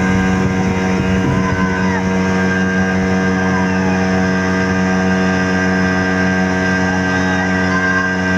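Speed boat's motor running at a steady speed, a constant even drone that cuts off suddenly at the end.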